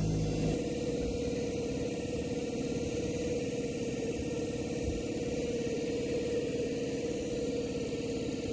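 Small outboard motor on a canoe running steadily at an even speed, with a rapid pulsing beat and a steady hum.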